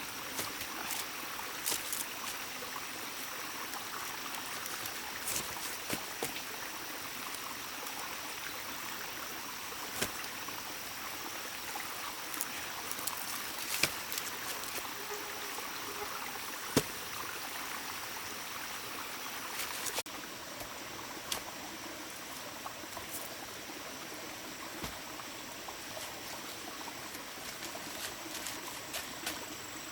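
Steady rush of running water, with scattered sharp knocks and clicks over it; the rush drops a little in level about twenty seconds in.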